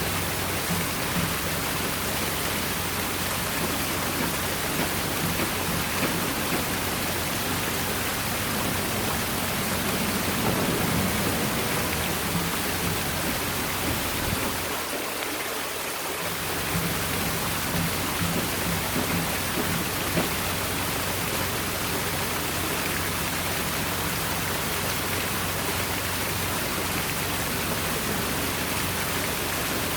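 Water from an artificial rock waterfall pouring and splashing into its pool: a steady, even rush.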